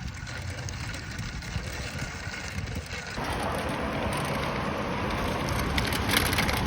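Riding noise from a moving bicycle: wind rumbling on the microphone and tyres rolling, with a louder steady hiss setting in suddenly about three seconds in.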